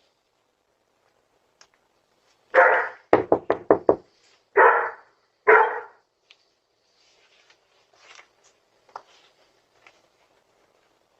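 A dog barks three times, with a quick run of about five knocks on a door between the first and second barks.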